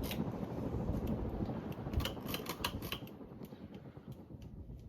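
Hunter Original ceiling fan's shaded-pole motor humming on high, with a quick run of clicks about two seconds in. The hum then fades steadily through the last couple of seconds as the fan begins coasting down.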